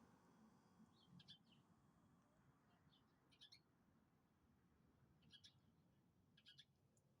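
Faint short bird chirps, four or five of them spread a second or two apart, over a faint low background hiss.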